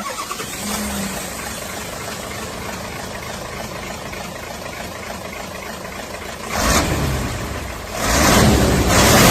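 RC dump truck running with a steady engine-like hum, surging louder twice near the end as it drives.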